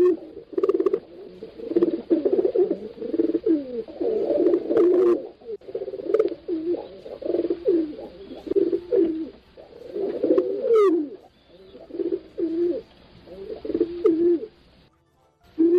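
Pigeons cooing: many low coos overlap one after another with hardly a pause. The cooing cuts out briefly near the end, then starts again.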